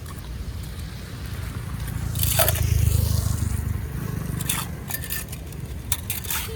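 Scraping and crunching of wet debris being pulled out of a clogged drain, several short scrapes over a low rumble that swells midway.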